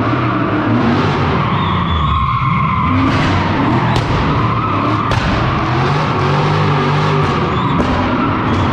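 Straight-piped V8 engine held at high revs while a car drifts, with tyres skidding on the slippery floor. A few sharp cracks cut through it.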